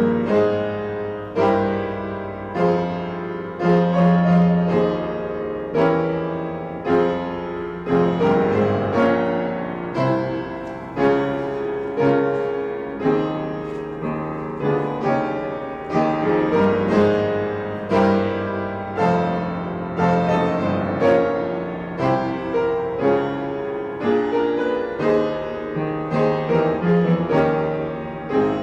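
Solo piano playing a slow, chordal piece, each note struck and left to ring and fade.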